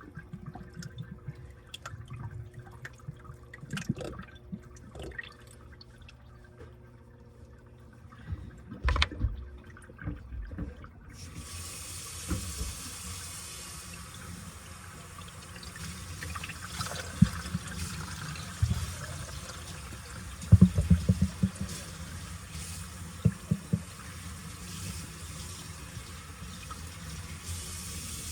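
Washing machine running with a load in the drum: low thuds and sloshing of wet laundry, then about eleven seconds in a steady hiss of water starts pouring into the drum as it fills.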